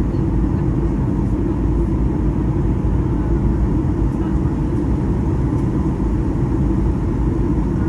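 Steady low rumble of a Boeing 737-800 heard from inside the passenger cabin in flight: engine and airflow noise, even in level with no changes.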